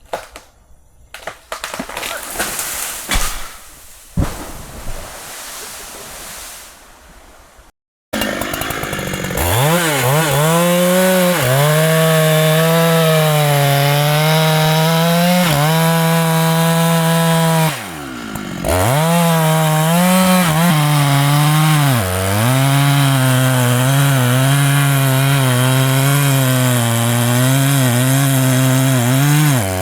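Large Husqvarna two-stroke chainsaw running at full throttle in a cut through a thick hardwood trunk, its engine pitch wavering as it labours under load. About two-thirds of the way through the pitch drops sharply, then the saw revs back up into the cut. Before it starts, about a quarter of the way in, there are only scattered rustling and a couple of knocks.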